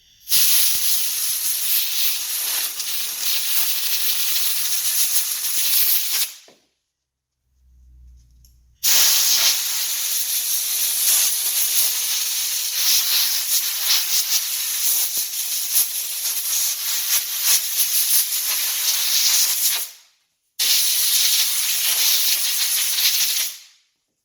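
Compressed-air gun blowing out a lawn mower's foam air filter: a loud, steady hiss in three long blasts, the first about six seconds, the second about eleven, the third about three, with a short low thump between the first two.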